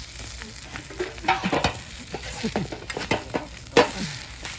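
Fried rice sizzling in a 36 cm iron frying pan over a wood fire while it is stirred, with several sharp scraping and clanking strokes against the pan; the loudest comes near the end.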